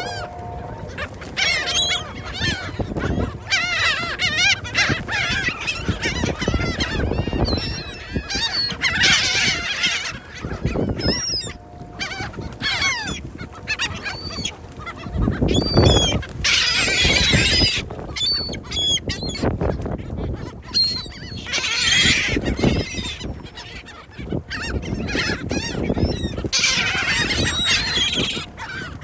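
A flock of gulls calling, many overlapping wavering cries that rise and fall in loud bouts. A low rushing noise swells underneath at times, loudest about halfway through.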